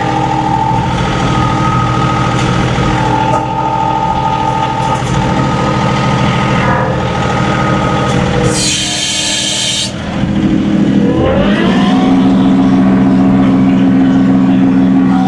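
John Deere 2038R compact tractor's diesel engine running with a higher whine over it. About eight and a half seconds in there is a brief hiss, then the engine rises in pitch and holds a higher, steady speed.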